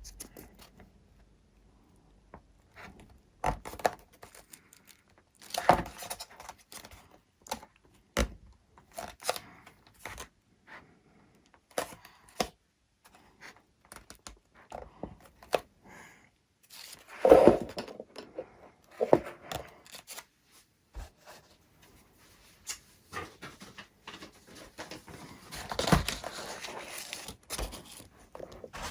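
Irregular handling noises of repair work on a foam model plane: scattered clicks, light knocks, scrapes and short tearing rustles, with a louder cluster about two-thirds of the way through.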